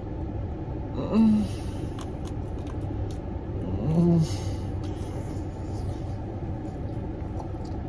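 A man bites into and chews a mouthful of Cajun boudin sausage, with faint mouth clicks and two short "mm" hums, about a second in and about four seconds in. A steady low rumble fills the car cabin underneath.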